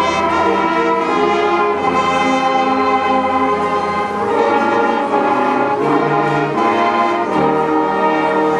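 Marching band playing, led by brass holding long chords that shift every second or so.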